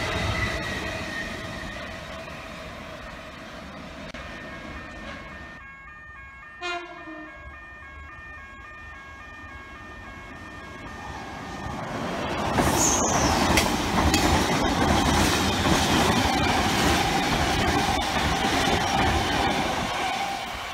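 The container wagons of a freight train roll past on the rails, fading away over the first few seconds. After a quieter stretch with faint repeated level-crossing bells, a V set double-deck electric intercity train approaches and runs through the station, loud from about 12 seconds in.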